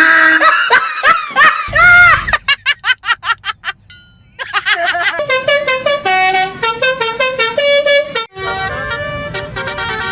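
Edited sound-effect track: swooping, voice-like pitched calls for the first two seconds, a quick run of sharp clicks, then a multi-tone telolet bus horn playing a melody in steady stepped notes.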